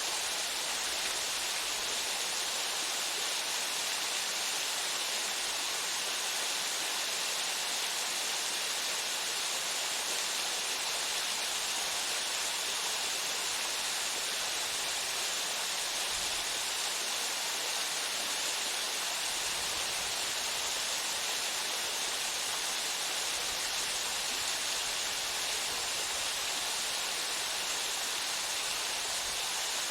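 Waterfall pouring steadily into its pool, an even rushing hiss that is strongest in the upper range.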